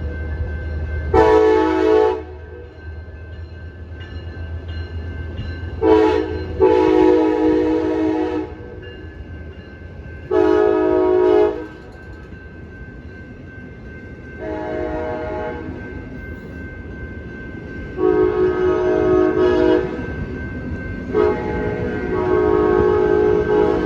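Amtrak locomotive air horn sounding a series of blasts, each a chord of several steady tones, mixing short toots and longer blasts of about a second or two, over the steady rumble of the train.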